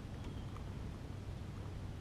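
Quiet outdoor background: a steady low rumble with a few faint ticks and a faint high thin tone in short dashes.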